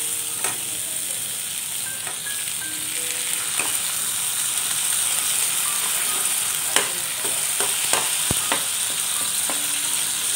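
Chopped onions and freshly added tomatoes frying in hot oil in a non-stick kadai, a steady sizzle. A steel spatula stirs and scrapes through them, with a few sharp knocks against the pan.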